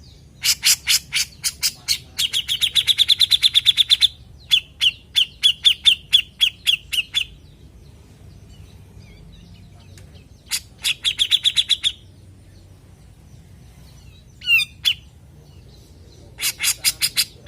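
Cucak jenggot (grey-cheeked bulbul) calling in fast chattering series of quick repeated notes, about ten a second. There are three long runs in the first half, then a pause, one short call, and a new run starting near the end.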